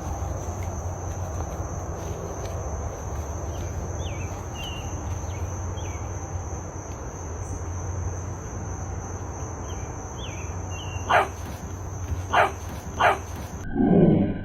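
Outdoor background with a steady high insect drone and a few faint chirps, then a dog barks three times in quick succession near the end.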